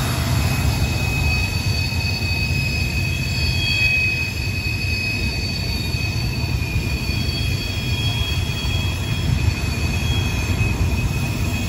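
Norfolk Southern freight train of container cars rolling past with a steady low rumble and high, sustained wheel squeal: steel wheel flanges grinding against the rail on a sharp curve.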